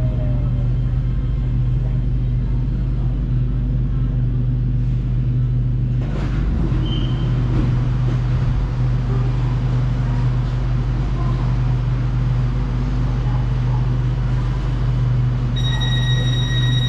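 SRT Red Line electric commuter train running, a steady low rumble with a shift in the noise about six seconds in. A steady high whine comes in near the end.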